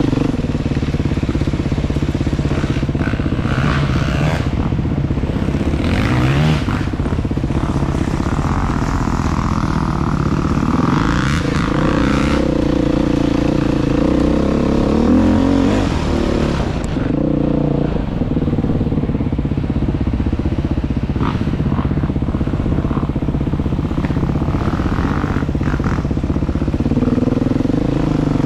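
Motorcycle engine running steadily under way, its revs shifting up and down a few times, with intermittent rattling and wind noise.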